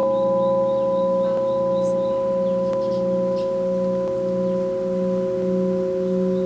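Several crystal singing bowls ringing together in long, steady tones, the lowest one pulsing about twice a second. There are a few faint taps along the way.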